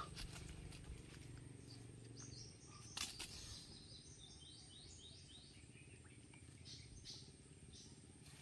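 Quiet forest ambience with a bird giving a run of short, high, falling chirps through the middle, and a single sharp knock about three seconds in.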